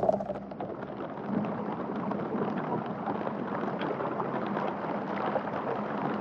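Steady hiss of rain falling in a thunderstorm, growing a little louder about a second in.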